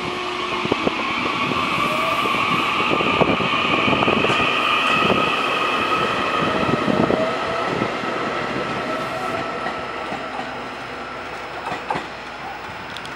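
Taiwan Railway EMU800 electric commuter train running past on the near track: steady rail noise with a high whine and wheels clicking over rail joints. It grows to its loudest about four seconds in, then slowly fades as the train moves on.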